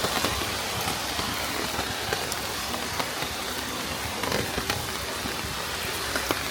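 Steady rain falling, with many scattered drops ticking on surfaces.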